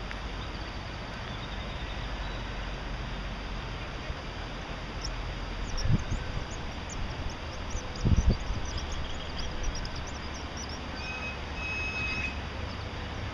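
Small birds chirping in quick high bursts through the middle, with a short whistled note near the end, over a steady low outdoor rumble. Two dull low thumps come about six and eight seconds in.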